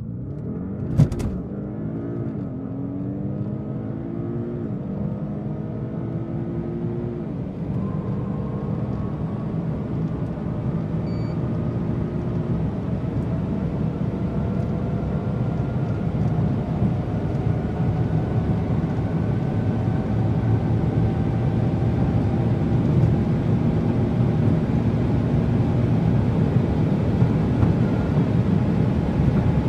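Twin-turbo V8 sports sedan accelerating hard, its engine pitch rising and dropping back at upshifts about 2, 5, 7 and 12 seconds in. Then comes a long, slow climb in a high gear under rising road and wind noise. A sharp click about a second in.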